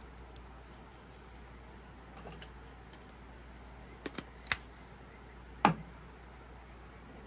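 A few scattered light clicks and knocks over a faint steady hiss, the last one, near the end, the loudest with a short ring after it. Faint short high chirps recur every second or so behind them.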